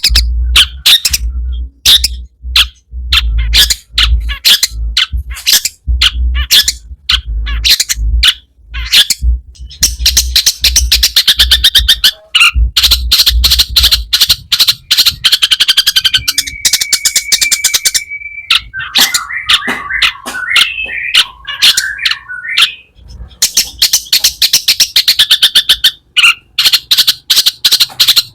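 Long-tailed shrike (cendet) singing a fast chattering song full of mimicked calls: long rapid strings of notes, a single held whistle about halfway through, then a warbled run before the rapid notes resume. A low hum runs under the first half.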